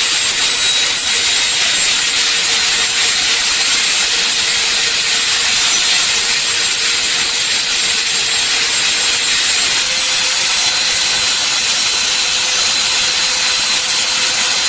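Steady, even hiss of a workshop power tool working a part, with a faint steady tone underneath.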